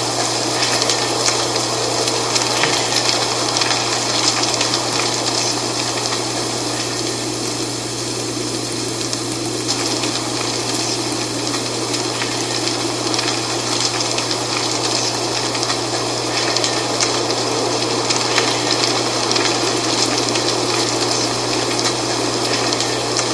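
Dry fall leaves rustling continuously in steady wind, a dense crackly hiss with a constant low hum underneath.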